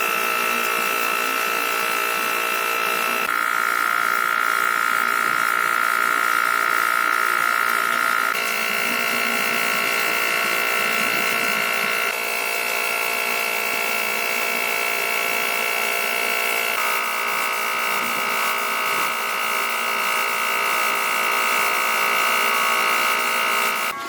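A small electric motor whining steadily, like a handheld rotary tool running. Its pitch shifts in steps four times and it cuts off suddenly near the end.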